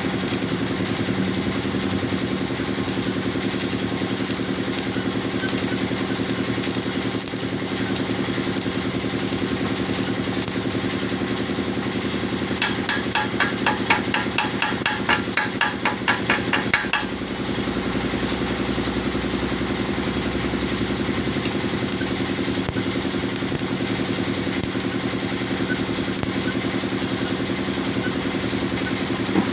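An engine running steadily at idle. About halfway through come several seconds of quick, even metallic tapping, roughly five taps a second.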